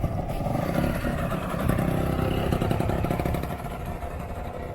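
Motorcycle engine running, growing louder in the middle and easing off near the end.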